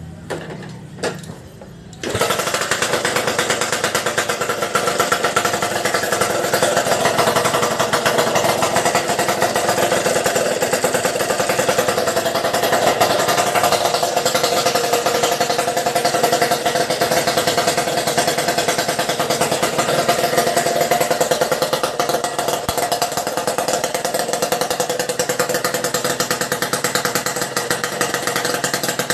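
Suzuki RC110's small two-stroke single-cylinder engine, heard through its exhaust. After a couple of short knocks, it runs loud and steady from about two seconds in, with a rapid, even beat.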